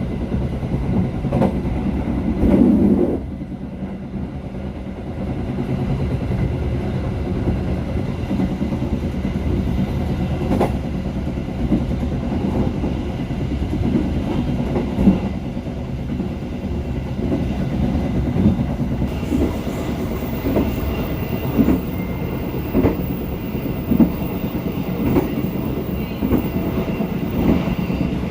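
Passenger train running on rails, heard from on board at the rear: a steady low rumble with repeated sharp wheel knocks and clickety-clack over the rail joints, more frequent in the second half.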